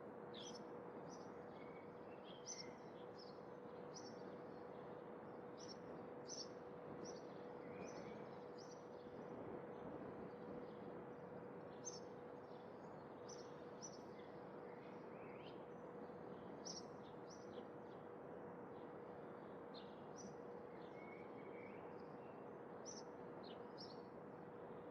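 Small birds chirping, many short high notes scattered throughout, faint over a steady background hiss with a faint steady hum.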